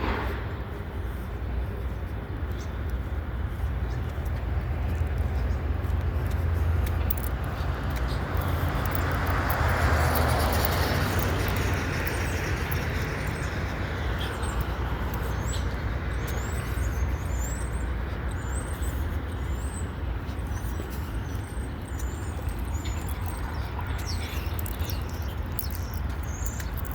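Freight train cars rolling past with a steady low rumble, swelling to its loudest about ten seconds in, with birds chirping through the middle.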